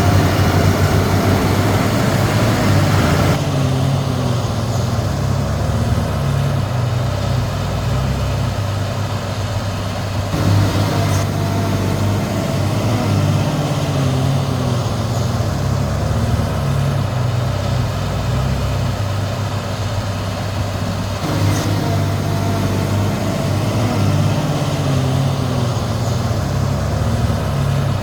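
Heavy diesel engine of a Komatsu D31P bulldozer running steadily, a deep continuous hum; the sound changes abruptly about three, ten and twenty-one seconds in.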